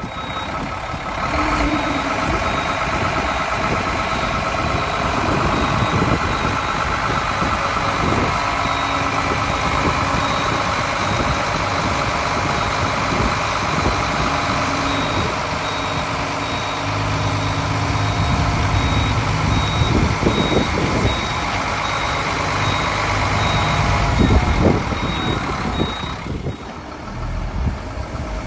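Iveco Trakker 380 truck running, with its reversing alarm beeping at a steady, regular rate over the engine noise. The beeping stops near the end, and the engine's low rumble grows heavier in the second half.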